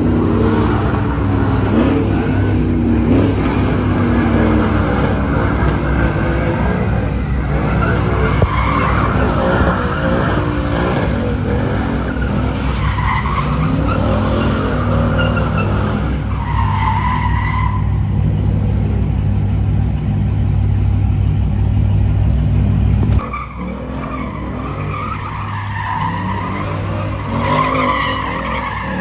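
A car spinning its tyres in a burnout, the engine held at high revs under a long, wavering tyre squeal. The sound changes abruptly about 23 seconds in, then goes on with the same squealing.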